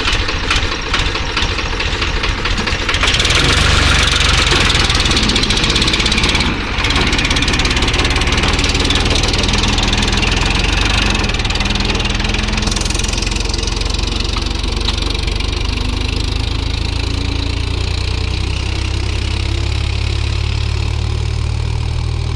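Old-model Escort 440 tractor's diesel engine running steadily under load, pulling a fully loaded trolley. It is loudest a few seconds in, drops briefly around a third of the way through, then settles to a steady run.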